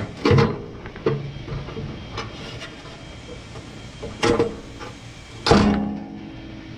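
Metal parts of a Weber Genesis gas grill knocking and clanking as they are handled, four sharp knocks with a short metallic ring after the loudest, which comes near the end.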